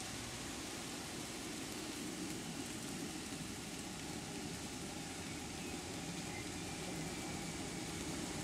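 Electric train at a station platform: a steady low hum under an even hiss, growing a little louder near the end.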